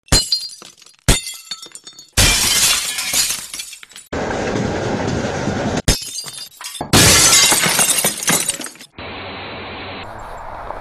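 A string of short, abruptly cut snippets of clattering railway noise: two sharp crashes that die away, then stretches of loud rattling train noise, ending in a steadier hiss.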